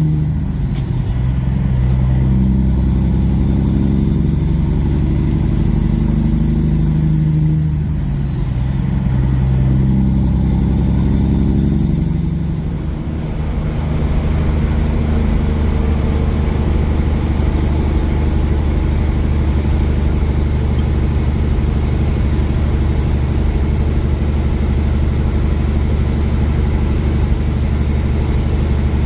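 Kenworth W900 semi truck's diesel engine pulling away through the gears, with a high turbo whistle rising with the revs. The engine and whistle drop away at a shift about a third of the way through and again near halfway, then rise once more and settle into a steady run with a steady high whine.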